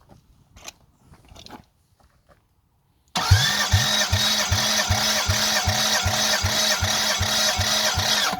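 Toyota 1MZ V6 engine being cranked over by its starter motor: a sudden loud start about three seconds in, a steady whine with a regular pulsing of about two to three beats a second, after a few faint clicks.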